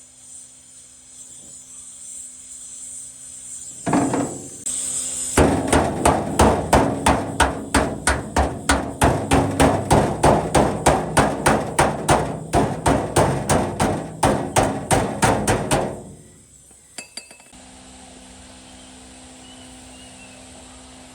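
Rapid, steady hammer blows, about four a second for roughly ten seconds, then stopping; typical of hammering out rusted sheet metal on a truck cabin.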